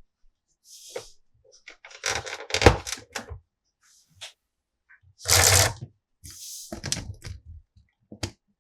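Hard plastic toy parts being handled: irregular clusters of clicks and clacks, the loudest a clatter about five seconds in, with short rustles in between.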